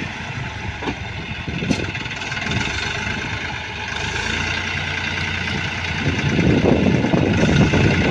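Heavy diesel machinery running steadily, the engines of a backhoe loader and farm tractors working together, growing louder and rougher about six seconds in.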